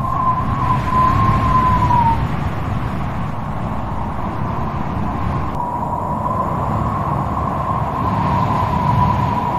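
Strong wind blowing with a deep rumble of gusts and a thin, wavering whistle over it. The whistle falls away about two seconds in and returns after about five and a half seconds.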